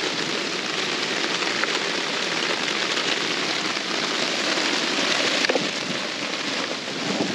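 Steady hiss of rain falling, even and unbroken, with a few faint ticks in it.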